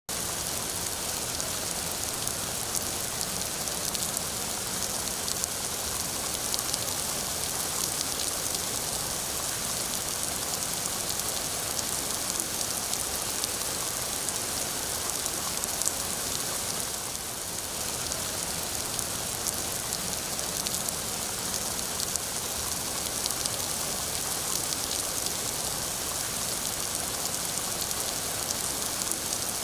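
Steady rain falling and pattering on a surface, with many small drop ticks throughout; it eases briefly about two-thirds of the way through.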